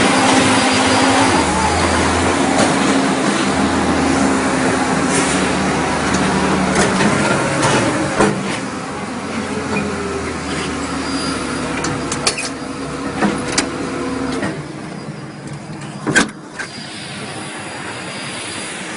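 Steady engine noise with a low hum and a noisy rush, broken by scattered clicks and knocks, one sharper knock near the end. The low hum drops away about three quarters of the way through.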